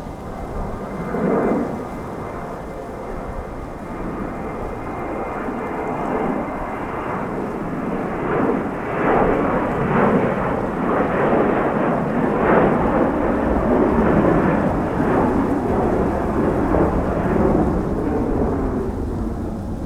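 Jet airliner engine noise: a rumbling roar that builds, is loudest about halfway through, and fades slightly near the end as the aircraft passes.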